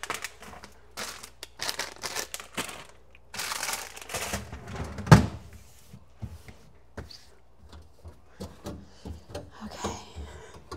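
Food packages and containers being handled and moved around in a refrigerator: a run of rustling and scraping, one loud thunk about five seconds in, then lighter knocks and clicks.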